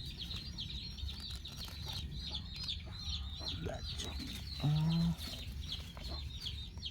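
Chickens calling: a steady chatter of many short, high peeps, with a brief low call about five seconds in.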